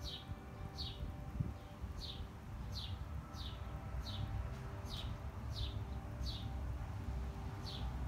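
A small bird repeating a short, high, downward-slurred chirp, about one every three-quarters of a second, over a steady low city rumble and faint hum.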